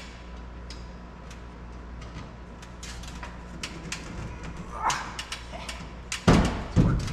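Shop handling noises: scattered light clicks and knocks over a steady background hum, then two heavy thumps about half a second apart near the end.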